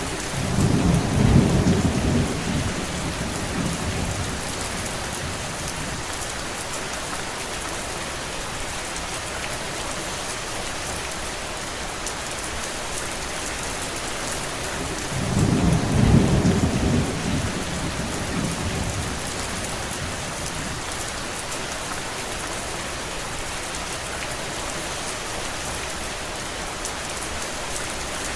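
Steady heavy rain, broken twice by a low rumble lasting a couple of seconds: once about a second in and again about halfway through.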